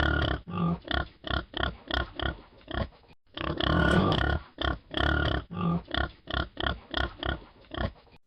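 Bull calling in a series of short, rough calls, with a brief pause about three seconds in, then one longer call followed by about ten quick short ones.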